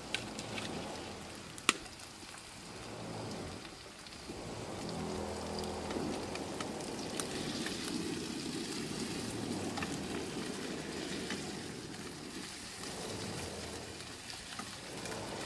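Chopped tomatoes and masala sizzling in a kadhai over a wood fire while being stirred with a spatula, with scattered clicks of metal on metal and one sharp click just under two seconds in.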